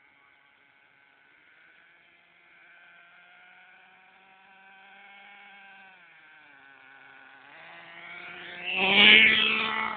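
RC monster truck's motor whining as the throttle is worked, its pitch rising and falling; it is faint at first and becomes loud near the end as the truck comes close, then its pitch drops.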